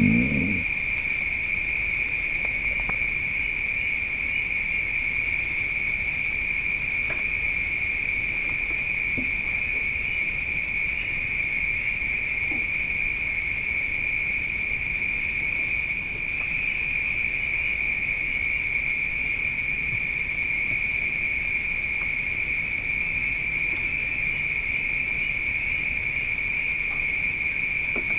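Night insects, crickets among them, trilling steadily without a break. Two high-pitched chirrs overlap, the higher one a fast, even pulsing.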